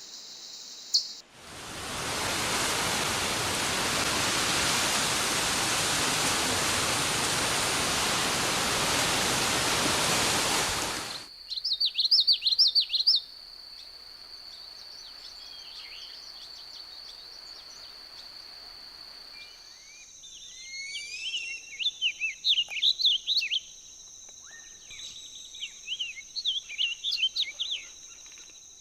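A loud, even rushing hiss for about nine seconds, then wild bird calls: a quick burst of high chirps, and later a long run of chirping notes over a steady high whine.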